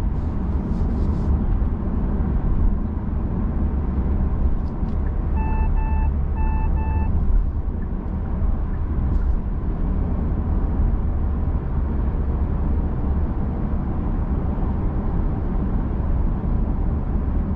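Steady road and tyre noise inside the cabin of a 2021 Genesis G80 cruising at motorway speed, a continuous low rumble. About five and a half seconds in, the car's electronic chime sounds four short beeps in two pairs.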